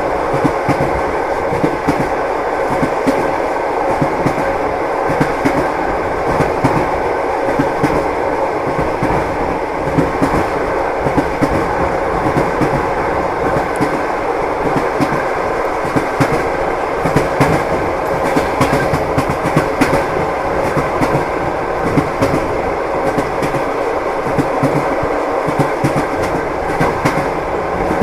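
A passenger train running steadily: an even rumble with the rhythmic clickety-clack of the wheels over the rail joints.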